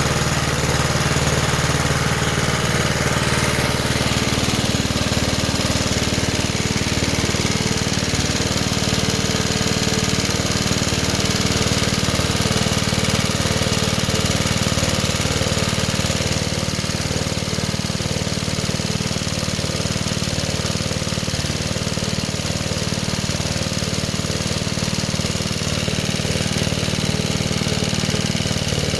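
Small engine of a restored Johnson Iron Horse 'Chore Horse' DC generator running steadily, its note shifting slightly about four seconds in and again midway.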